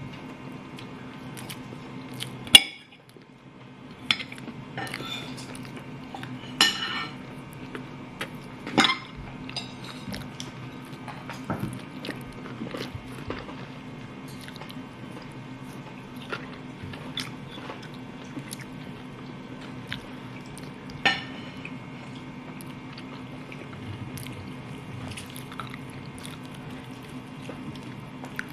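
Dishes and metal utensils clinking in a kitchen, a few sharp separate clinks, the loudest about two and a half seconds in, over a steady low hum.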